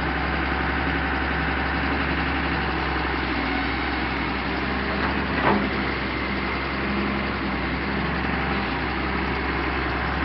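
Excavator's diesel engine running steadily, with a single short knock a little past halfway through.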